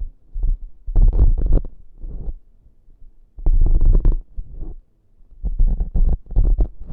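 Close-miked ASMR prop sounds: rubbing and scratching right at the microphone, with a heavy low rumble. They come in three bursts, about a second in, at the middle and near the end.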